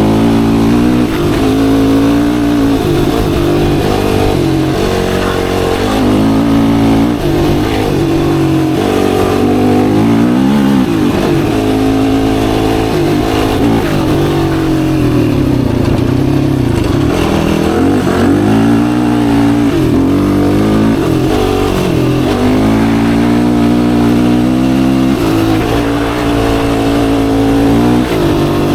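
Yamaha YFZ450R quad's single-cylinder four-stroke engine running under load while ridden, its pitch rising and falling again and again as the throttle is opened and closed.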